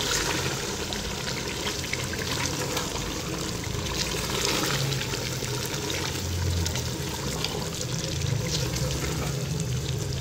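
Spinach and meat curry sizzling in an aluminium pot over a high flame while a wooden spoon stirs it, with light scrapes against the pot.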